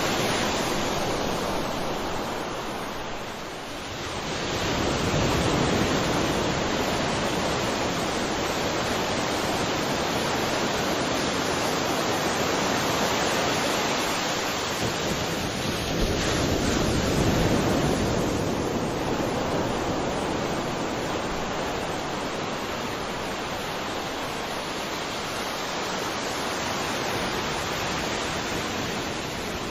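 Ocean surf: a steady wash of waves breaking and running up a shore, dipping briefly and swelling again about four seconds in, with another surge around sixteen seconds.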